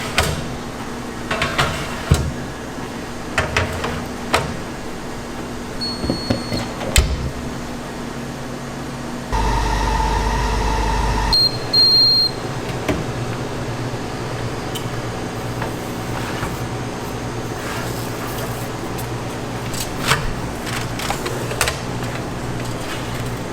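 Kitchen work with scattered knocks and clatter of utensils and containers. About nine seconds in, an electric kitchen appliance runs with a steady hum for about two seconds, then gives two short high beeps. Light clicks and handling follow over a steady low background hum.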